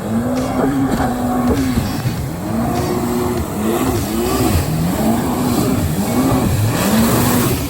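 Jet ski engine revving up and dropping back again and again, about five times in a row, with a rough rushing noise underneath.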